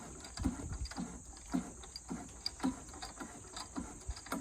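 Ratchet clicking in steady strokes, about two a second, as a small-block Chevy engine is turned over by hand; the engine, thought to be seized, now turns freely.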